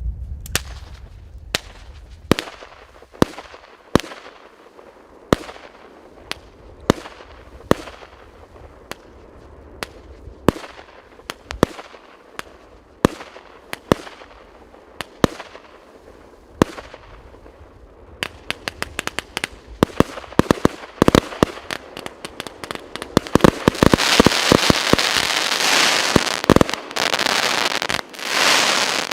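A 58-shot fan firework cake firing: single shots go off one at a time, a little under once a second, then speed up into rapid volleys about two-thirds of the way in. Near the end they merge into a dense, loud barrage for the finale.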